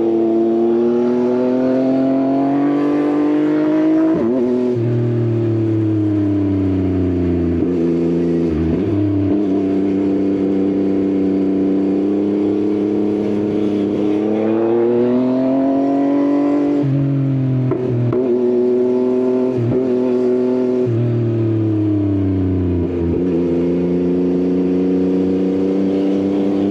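Yamaha XSR900 inline-three motorcycle engine with an Akrapovič exhaust, under way and pulling through the gears. Its pitch climbs and drops sharply at gear changes about 4 seconds in and again around 17, 20 and 23 seconds, with steady cruising and a slowing stretch in between.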